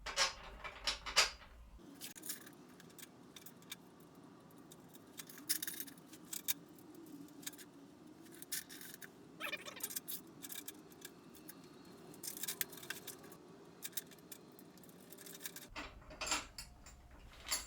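Bolts, washers and nuts clinking as they are handled and fitted into the mounting brackets: irregular light metallic clicks and rattles.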